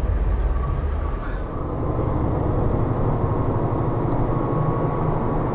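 Steady road and engine noise of a car being driven, a continuous low rumble with a faint steady whine over it.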